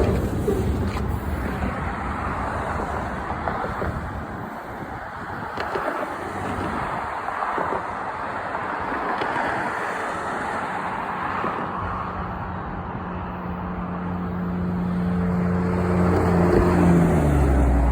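Train going by under the bridge: a steady rumble of wheels and running gear, joined partway through by an engine's steady hum that grows louder and drops in pitch near the end as it passes.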